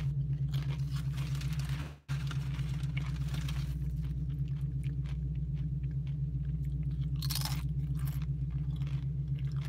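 Close-up crunching and chewing of tortilla chips, bite after bite, with the strongest crunches near the end, over a steady low hum. The sound cuts out for an instant about two seconds in.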